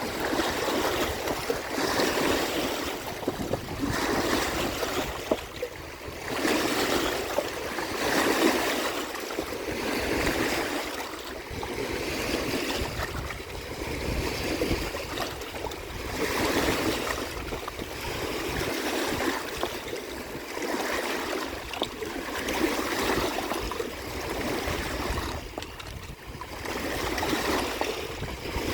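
Waves washing in against the shore, coming in repeated surges every few seconds.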